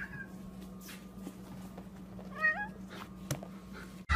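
Domestic cat giving one short meow with a wavering pitch about two and a half seconds in, with a few faint clicks around it.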